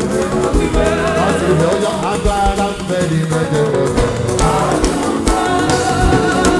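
Live church gospel music: voices singing a hymn over instruments, with repeated low drum beats.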